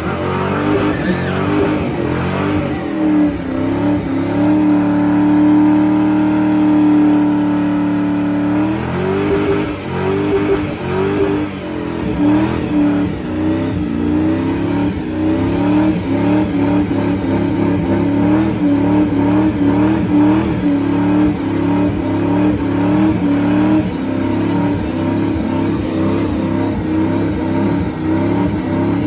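Car engine revved hard while standing: held at a steady high rev for about four seconds, then blipped up and down over and over.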